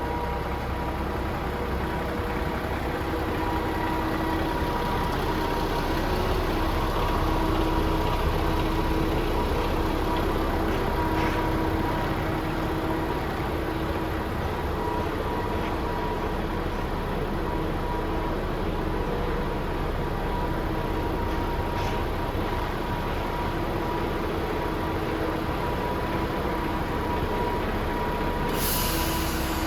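DAF XF106's Paccar 460 bhp Euro 6 diesel engine idling steadily, with a short hiss near the end.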